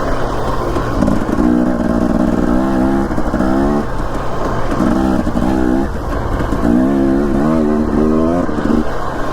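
Dirt bike engine revving up and dropping back several times as the rider accelerates and eases off, with a constant low rumble underneath.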